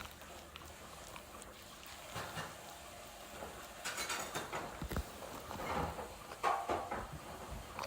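A husky eating sweet potato: irregular wet chewing and smacking, with small clicks, busiest in the second half.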